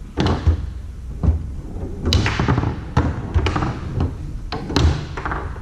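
Foosball game on a Tornado table: the ball is struck by the rod figures and knocks against the table walls. It makes sharp clacks and thuds at irregular intervals, about eight in all.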